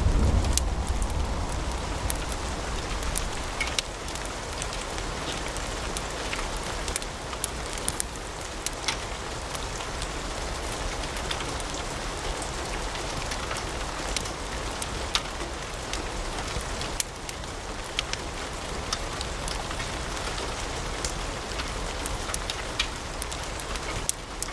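Wood fire in a fireplace crackling, a steady hiss with frequent sharp pops and snaps. A low rumble fades out in the first second.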